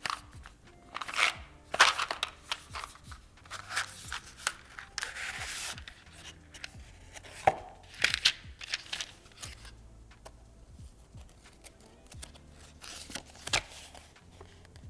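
Game packaging being cut, torn and handled: a string of short rustles and scrapes with a few sharp clicks, and a longer tearing rustle about five seconds in.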